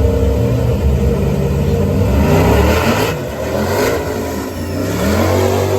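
Drag-race car engine revving hard and accelerating, its pitch rising and falling, easing off somewhat after about three seconds.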